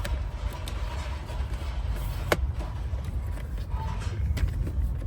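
Small clicks and taps of metal lock parts and linkage rods being fitted inside a van's side door, with one sharp click a little before halfway, over a steady low rumble.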